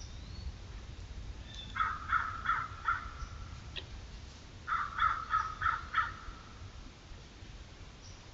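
A bird calling off-camera in two runs of short, repeated calls: four starting about two seconds in and five or six more about three seconds later.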